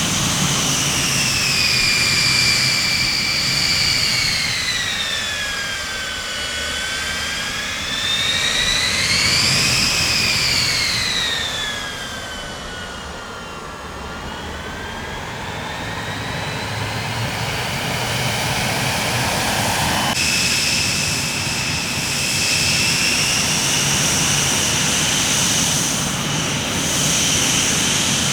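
Jet aeroplane engines with a high turbine whine that falls, rises and falls again, then settles into a steady whine. The sound changes abruptly about twenty seconds in.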